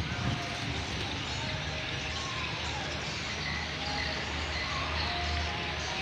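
Strong wind ahead of a rainstorm, rumbling steadily on the microphone, with a few short faint chirps over it.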